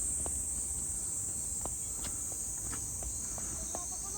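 Steady, high-pitched insect chorus that never lets up, with scattered light taps and clicks underneath, like footsteps along the path.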